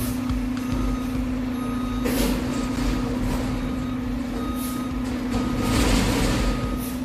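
Garbage truck running with a steady hum, with short repeated beeps and several bursts of air hiss, the loudest about six seconds in.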